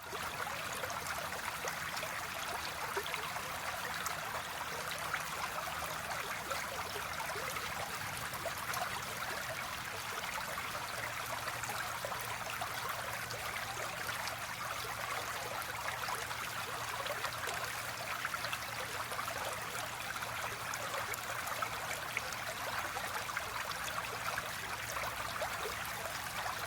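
Clear, shallow stream trickling and babbling over stones in a steady flow.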